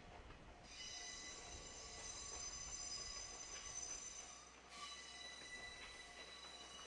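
Distant electric train moving slowly through a rail yard. A high, steady squeal or whine of several tones sets in about a second in and shifts near the end, over a faint low rumble and a soft repeating blip.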